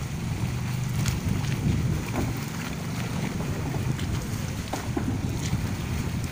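A boat engine running steadily with a low drone, wind buffeting the microphone, and scattered small clicks.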